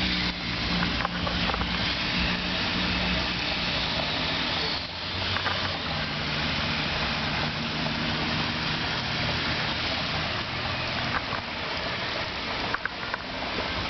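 A vehicle engine running steadily, heard as a low hum over a constant rushing noise. The engine hum drops out about four and a half seconds in, comes back a second or so later, and fades out around ten seconds in.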